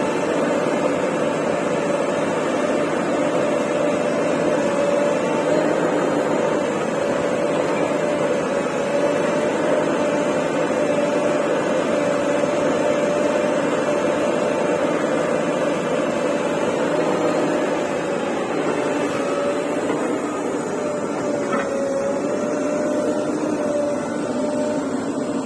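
Engine of a piece of heavy earthmoving machinery running steadily, with a constant whine that wavers slightly in pitch.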